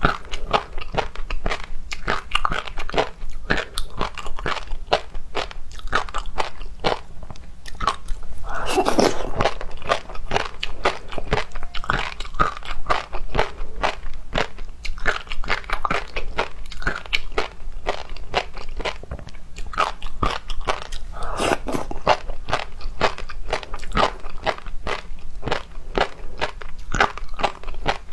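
Close-miked chewing and crunching of seafood: a dense run of quick crunches and wet clicks, with two louder, longer bursts, about nine seconds in and again around twenty-one seconds.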